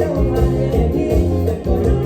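Isan mor lam band playing an upbeat toei number, with a steady dance beat and a prominent bass line.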